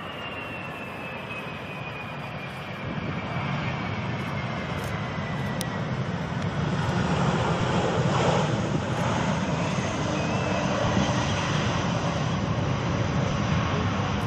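Jet airliner on landing approach passing over: engine noise with a thin whine that falls slowly in pitch over the first several seconds, growing louder to a peak about eight seconds in and staying loud.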